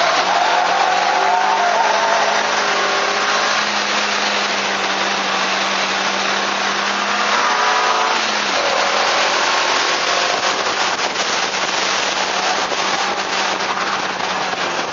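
Car engine running hard under load, heard from a camera mounted outside on the car, with heavy wind and road noise over it. The engine note drops about eight seconds in, as at a lift or gear change, then carries on steadily.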